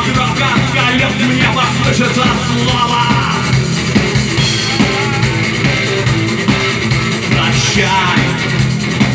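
A live rock band playing a song with electric guitar, a drum kit and a singing voice.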